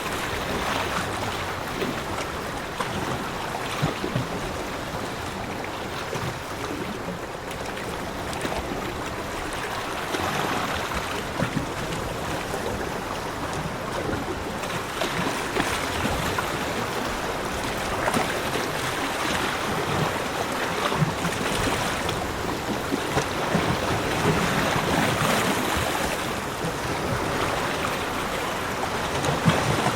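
Ocean surf washing on a beach: a steady rush of waves that swells and eases every few seconds.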